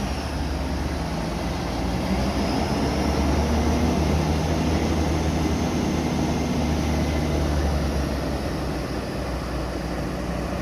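Heavy diesel engines of a bulldozer and truck running steadily under load, a continuous low drone.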